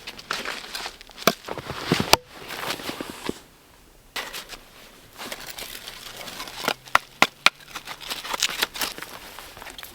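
Irregular sharp snaps and crackles of wood, with a short lull a little past three seconds in and a cluster of the loudest cracks around seven seconds in.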